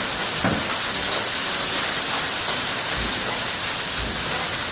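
Heavy hailstorm with rain: a dense, steady patter of hail and rain hitting the ground and surfaces, with a few low thuds of large stones landing.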